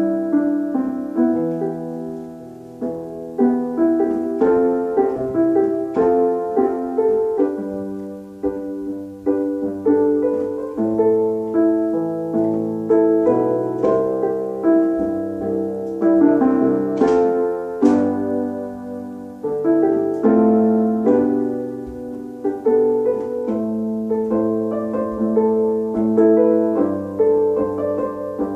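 Solo piano playing an instrumental passage: a steady run of struck chords and broken-chord notes, each note starting sharply and dying away.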